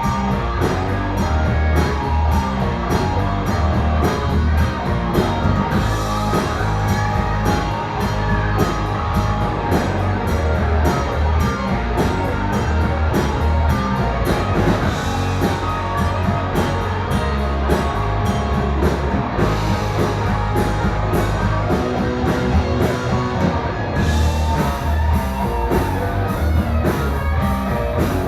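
Rock music with guitar and drum kit playing steadily.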